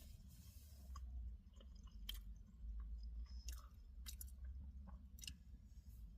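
Faint chewing of food, with a few short, soft clicks spread through, over a low steady hum.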